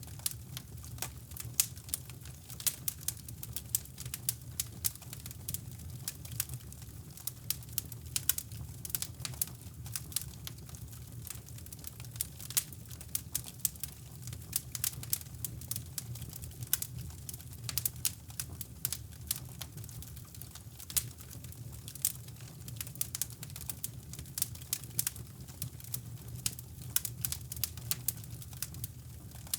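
Wood fire crackling in a fireplace, with irregular sharp pops and snaps over a steady low rumble of brown noise.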